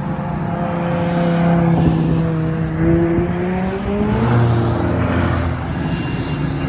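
Classic car engine running hard under way. Its note holds steady, climbs briefly, then drops to a lower pitch about four seconds in.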